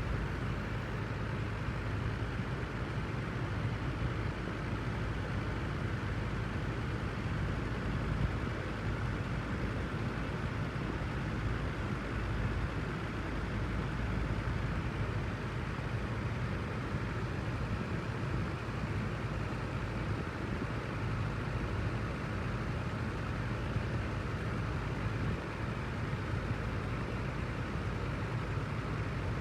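Wind-machine fan running steadily: an even rushing noise with a low rumble underneath, unchanging in level or pitch.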